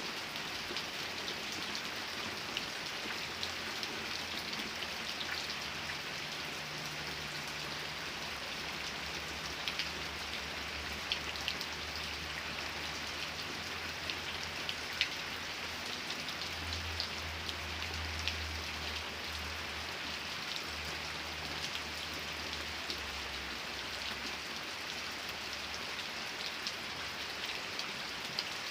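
Steady rain falling, with sharp individual drop ticks over an even hiss. A faint low rumble runs underneath through most of the middle and fades out near the end.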